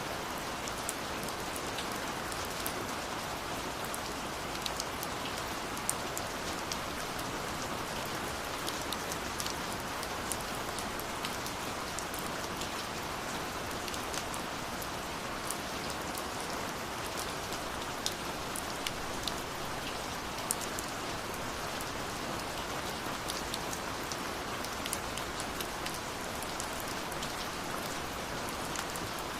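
Steady rush of falling water from a waterfall, with scattered, irregular crackles and pops of a wood fire over it.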